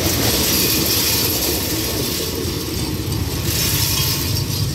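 Passenger train coaches rolling past on the track, a steady rush of wheel and rail noise, with the last coach going by and the train moving away.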